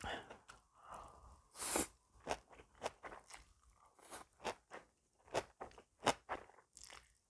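Close-miked chewing of crunchy food: an irregular run of short crunches and mouth clicks, with a short hissing breath about a second and a half in.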